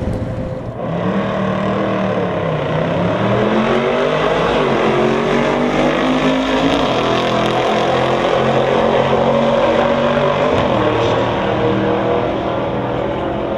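Muscle car engines at full throttle accelerating down a drag strip. Their pitch climbs, drops back at gear changes, then climbs again.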